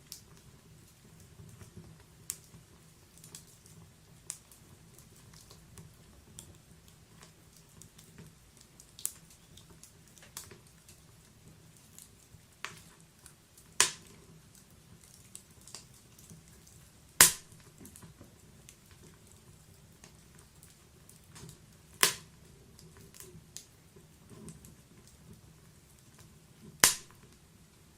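Wood fire burning in a fireplace: logs crackling with scattered small pops, and four sharper, louder snaps about 14, 17, 22 and 27 seconds in, over a faint low hiss of the flames.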